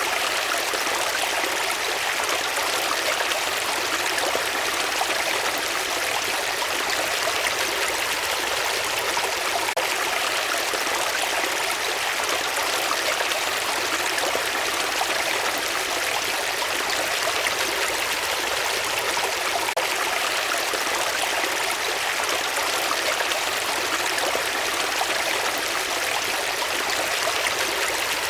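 Running water, a steady unbroken rush like a flowing stream.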